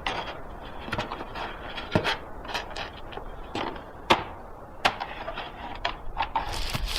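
A run of irregular knocks and clunks, like hard objects being handled or set down, with sharp ones about two, four and five seconds in.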